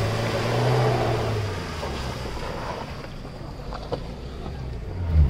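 An off-road SUV's engine running, its steady low hum strongest over the first two seconds and then easing off, under a steady hiss. There are two faint ticks near the end.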